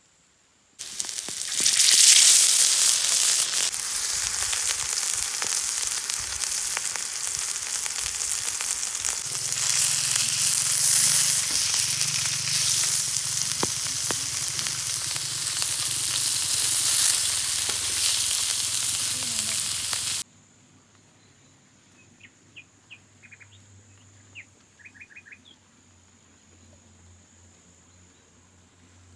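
Food sizzling and frying in a hot pan, a loud steady hiss that starts suddenly about a second in and cuts off abruptly about two-thirds of the way through. After it comes quiet, with a few faint bird chirps.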